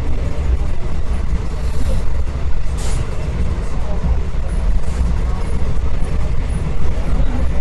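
Passenger train running, heard from aboard: a loud steady low rumble with a brief hiss about three seconds in.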